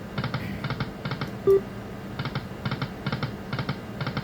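Lightning Link Best Bet slot machine spinning its reels: clusters of rapid ticking clicks, with a short beep about a second and a half in.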